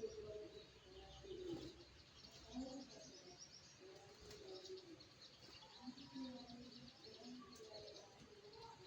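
Faint birdsong: runs of rapid, high chirping together with low, soft cooing of doves.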